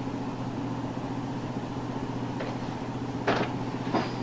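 Steady low drone of a patrol boat's machinery running below decks, with two short knocks near the end.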